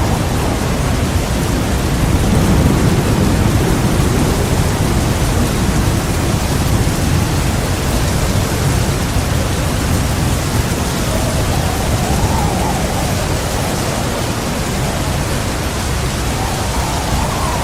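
Heavy rain pouring steadily, with a deep continuous rumble of thunder underneath that swells a little a couple of seconds in.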